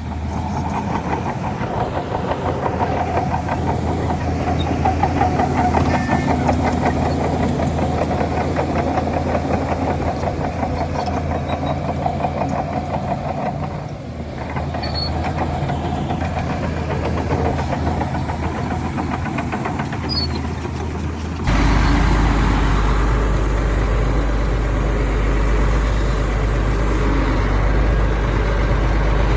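Heavy diesel engines of earthmoving machinery running steadily under load. About 21 seconds in, the sound changes abruptly to a louder, deeper engine note that holds steady.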